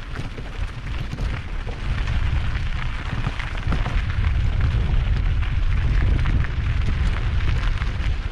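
Wind buffeting the microphone in a heavy, uneven rumble, over the crackle and rattle of mountain bike tyres rolling across loose, rocky trail; the rumble grows louder about two seconds in.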